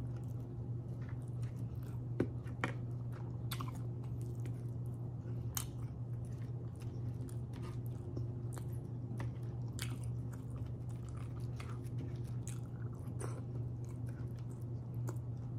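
Close-up chewing of grilled pork chop and sautéed string beans, with frequent short wet mouth clicks and smacks. A steady low hum runs underneath.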